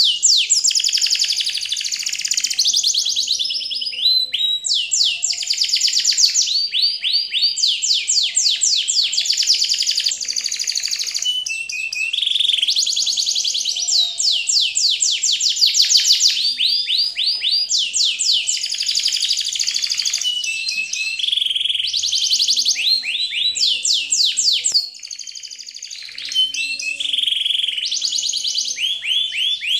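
Birds chirping without pause: long fast trills of high, falling chirps, one run after another, with a short lull near the end.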